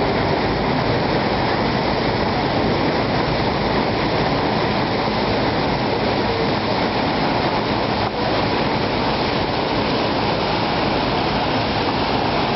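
Steady loud rushing noise of a motor ship under way, water washing along the hull, with a brief small dip about eight seconds in.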